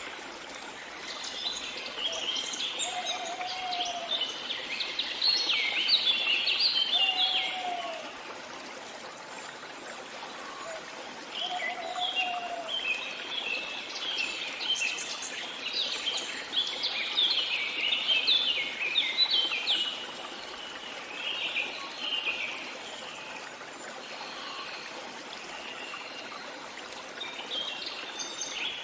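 Songbirds singing in long runs of rapid, high twittering notes, with a lower short call repeated four times in the first half. Underneath runs a steady hiss of running water.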